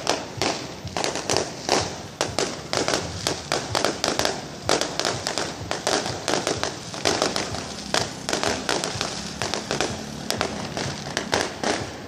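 Fireworks and firecrackers going off in a dense, continuous string of sharp bangs and crackles, several a second.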